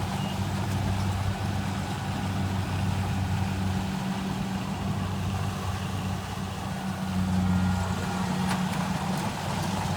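Kubota rice combine harvester's diesel engine running at a steady speed, a little louder briefly around seven seconds in.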